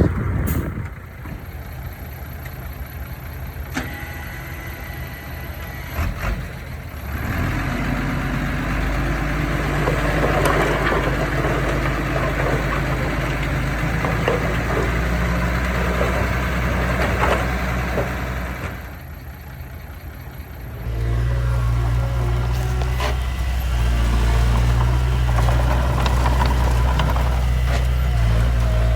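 Diesel engines of earthmoving machinery running, louder from about seven seconds in. The level drops briefly near twenty seconds, then a steady low engine drone goes on.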